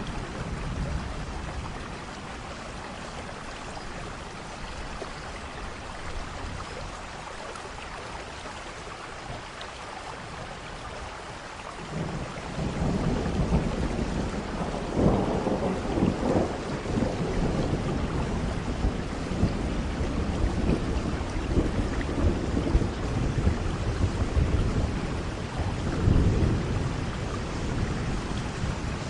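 Steady rain with rolling thunder: a low rumble fades in the first few seconds, then a heavy roll of thunder breaks in suddenly about twelve seconds in and rumbles on, swelling twice before easing.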